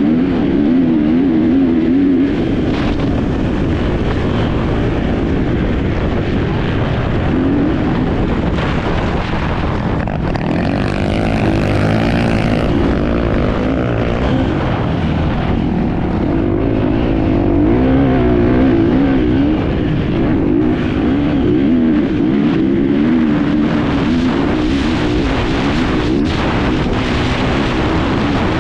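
Enduro motorcycle engine heard on board during an off-road race, its pitch rising and falling constantly as the rider works the throttle, with frequent short knocks and rattles from the rough terrain.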